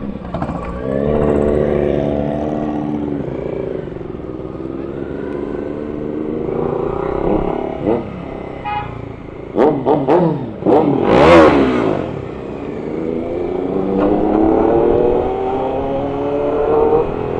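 Motorcycle engines on the move, each note climbing steadily as the bike accelerates and then dropping as it shifts gear, several times over. About ten seconds in, louder engine notes swoop quickly up and down over a couple of seconds, as a bike revs hard nearby.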